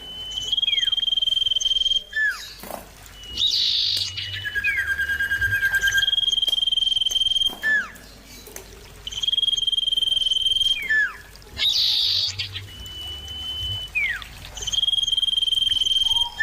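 Common iora (cipoh) calling over and over: long, steady, high whistles of a second or two each, alternating with short down-slurred notes. A lower held whistle comes about five seconds in.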